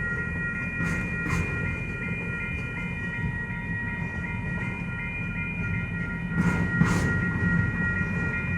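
Norfolk Southern freight train rolling past: a steady low rumble of the cars, with clicks in pairs as wheels cross rail joints about a second in and again near the end, and a steady high ringing tone over it.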